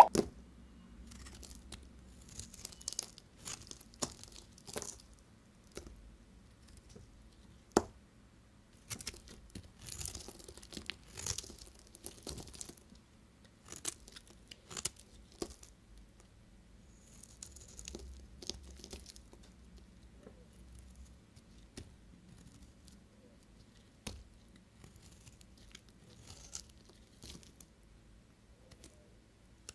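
Knife cutting through bars of soap: irregular crunchy scraping strokes with sharp clicks as the blade cuts and the pieces drop.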